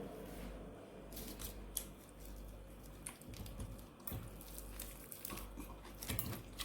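Faint, irregular rustling with light clicks and taps: hands handling food and kitchen things on a counter while making kimbap.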